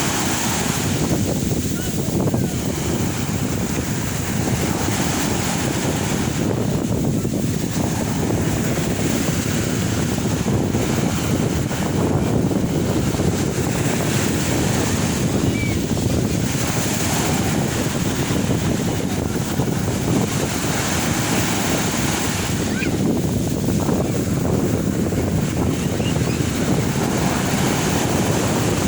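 Sea waves breaking and washing up the shore, a constant rush of surf that swells every few seconds.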